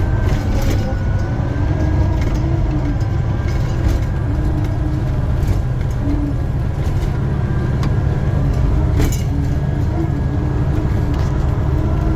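Caterpillar D8N bulldozer's turbocharged six-cylinder diesel running steadily under load at about half throttle while ripping frozen ground, with a faint steady whine and a few sharp knocks scattered through it.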